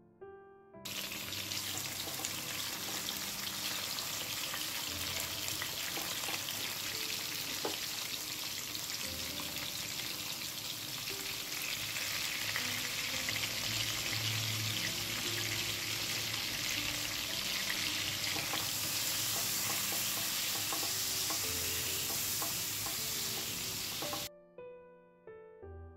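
Giant freshwater prawns frying in hot oil in a wok: a dense, steady sizzle that starts suddenly about a second in and cuts off near the end.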